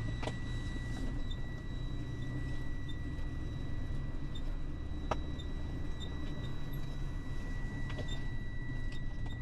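Truck engine running, heard from inside the cab as a steady low rumble, with a faint steady high-pitched whine and a single sharp click about five seconds in.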